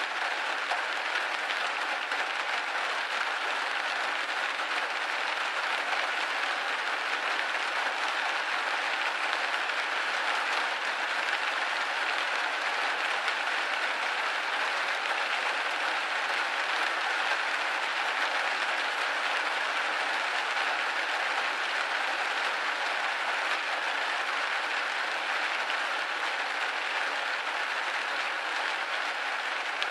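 Steady rain hitting a window pane: an even, dense patter of drops with no low rumble and no change in strength.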